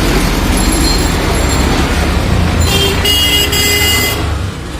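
Heavy truck traffic rumbling past at the roadside. A vehicle horn sounds for about a second and a half midway.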